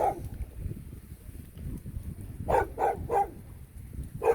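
A dog barking in short, separate barks: one at the start, a quick run of four about two and a half seconds in, and one more at the end.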